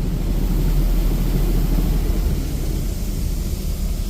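High-pressure water jets from a Laserwash 360+ touchless car wash arm spraying the car, heard from inside the cabin: a steady rushing hiss over a deep rumble, the water pulsing with the high-pressure pump.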